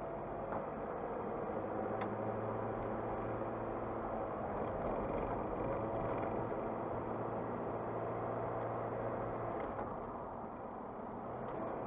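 Car driving along a road: steady tyre and road noise under a low, even engine hum, which eases off about ten seconds in.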